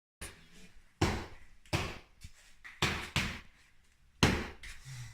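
Four sharp thumps about a second apart, each dying away quickly, with no engine running between them.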